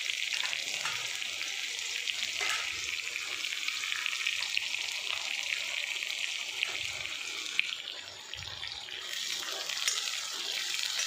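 Chopped onions and cashews sizzling in hot oil in an iron kadhai: a steady crackling hiss, easing briefly about eight seconds in.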